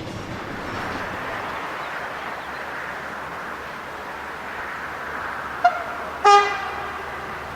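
A train rolls along with a steady rumble, and a locomotive horn sounds two short blasts about six seconds in: a brief higher note, then a louder, lower one.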